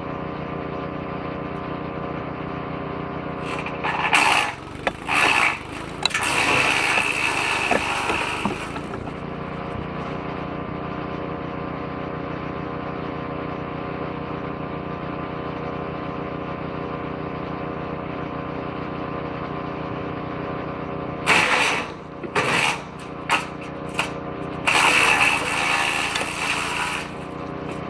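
Petrol-engined woodchipper-shredder running steadily, with two spells of loud, stop-start crunching a few seconds in and again about three-quarters through as branches are fed bit by bit into the shredder drum.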